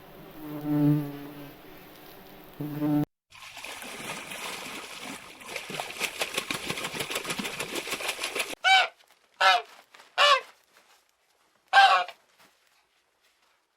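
Waterfowl calling: four loud, separate honks with a rising-then-falling pitch, a second or so apart, coming after several seconds of a dense buzzing, rattling noise and a low drone at the start.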